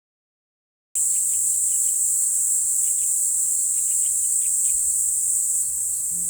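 Dense chorus of crickets, a steady high shrill trill that cuts in abruptly about a second in after silence, with a few faint separate chirps beneath it.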